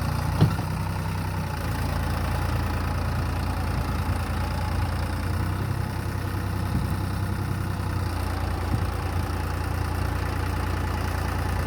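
Sonalika DI 35 RX tractor's diesel engine running at a steady idle, with a single short knock about half a second in.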